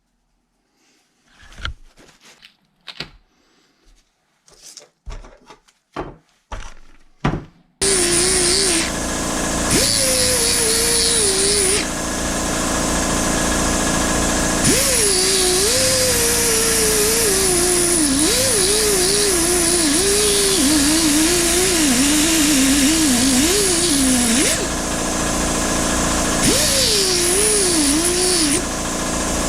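A few light knocks and clicks of parts being handled, then a power tool starts suddenly and runs continuously. Its pitch wavers and sags unevenly as the load changes, and a hissing edge cuts in and out several times.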